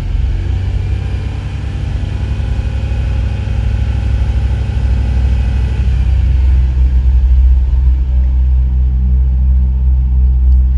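A 2000 Ford Windstar's 3.8-litre V6 running with a low rumble that gets louder in the second half. The engine is misfiring and running lean, which the mechanic suspects is an intake leak.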